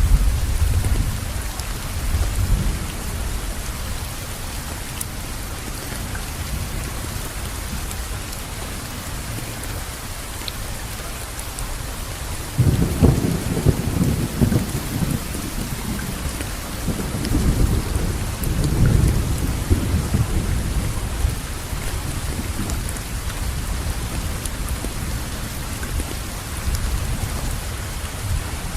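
Steady rainfall with rolling thunder. The thunder rumbles low near the start, comes back louder about halfway through, and rolls again a few seconds later.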